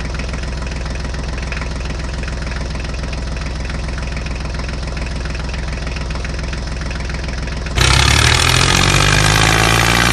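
Engine idling steadily with a low, even note; about eight seconds in it turns abruptly louder and harsher, its pitch shifting as if worked harder.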